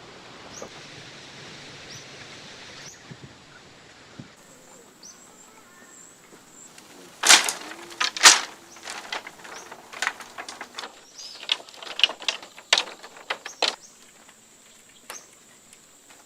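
A soft steady hiss, then a series of sharp knocks and clicks: two loud strikes about seven and eight seconds in, followed by a run of smaller ones.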